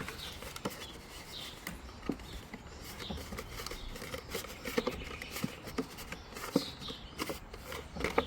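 Plastic orange juice jug being cut into a grain scoop: irregular snips, clicks and crackles of the plastic.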